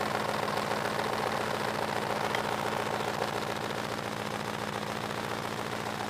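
Rover V8 engine running at a steady idle through a true dual exhaust with 2-inch stainless steel headers and Cherry Bomb mufflers.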